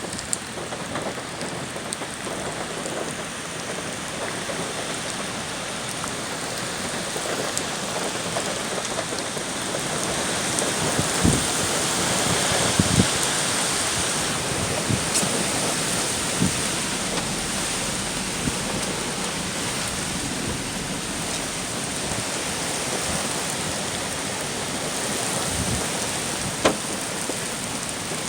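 Hurricane rain and wind, a steady rush that swells louder about ten seconds in and then eases a little. A few sharp taps and knocks are scattered through it.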